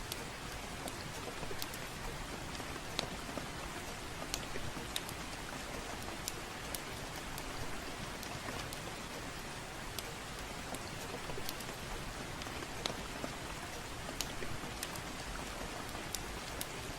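Gentle rain falling steadily, with scattered sharp irregular crackles from a wood fire.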